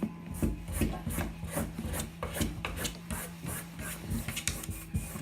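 A cat's claws scratching and scraping at a wooden door in quick repeated strokes, about three a second: a Maine Coon trying to get out to escape the hair dryer it fears.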